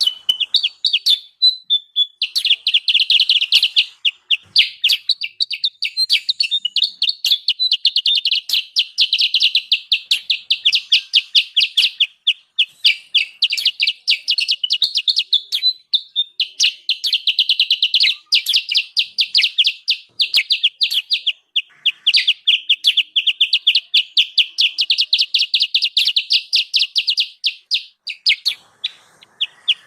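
Kutilang sutra (a songbird kept and trapped in Indonesia) calling in a noisy, excited run of rapid, high chirps, many notes a second, pausing only briefly a few times. The recording is a lure call meant to draw wild birds in.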